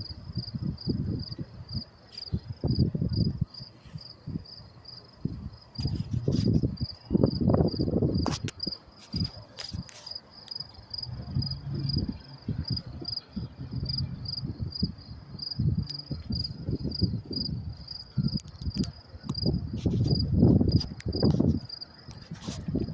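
Crickets chirping in a steady high-pitched pulse, about two to three chirps a second. Under them, a louder low rumble swells and fades every second or two, with a few faint clicks.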